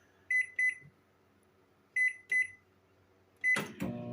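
Microwave oven keypad beeping as the cook time and full power are entered: about five short, high beeps. About three and a half seconds in there is a clunk, and the oven starts running with a steady hum.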